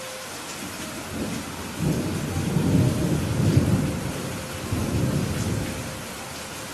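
Steady rain hiss, with a roll of thunder rumbling in about two seconds in, swelling and then fading away over about four seconds.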